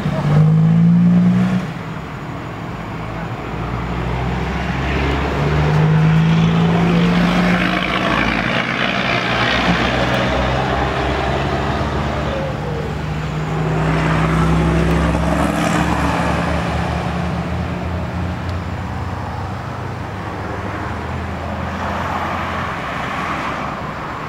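Six-wheel dump truck's diesel engine running hard under load while stuck in mud. The revs peak in the first second or two, then hold high with slow rises and falls.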